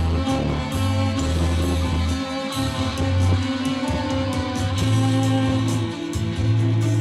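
Rock band playing an instrumental passage: guitar with bass and a steady drum beat, no vocals.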